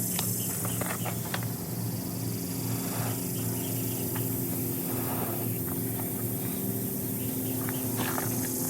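Scattered light snaps and crackles from pine needles and wood shavings in a small stove as a fire is coaxed along, over a steady low hum and a high hiss.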